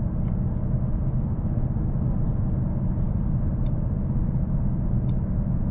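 Steady in-cabin drive noise of a 2024 Mercedes-AMG S63 sedan: a low, even hum of engine and road with no change in pitch.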